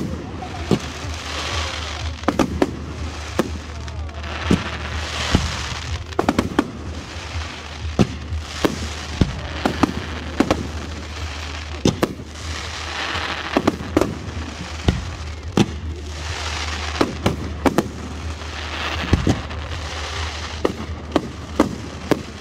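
Fireworks display: aerial shells launching and bursting in a rapid, irregular string of sharp bangs, with recurring stretches of hiss between them.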